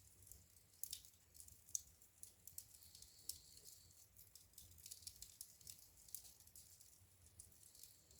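Wood fire crackling in a fireplace: faint, irregular sharp pops and snaps, with a louder pop a little under two seconds in, over a low steady rumble.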